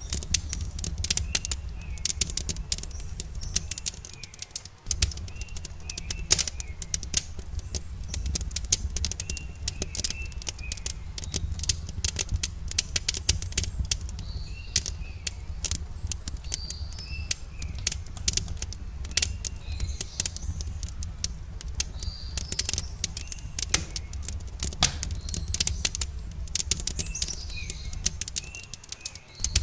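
Wood campfire crackling and popping in quick irregular snaps over a low steady rumble, with small birds chirping now and then in the background.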